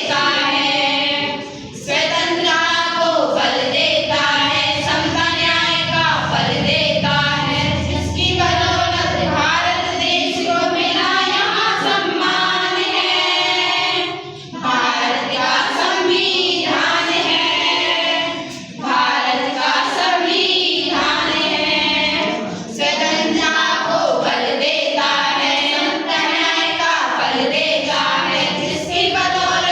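A group of children singing a song together in chorus, with long held notes.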